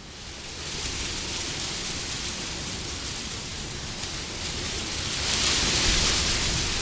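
Wind blowing as a steady rushing noise, building to a stronger gust about five seconds in and easing slightly near the end.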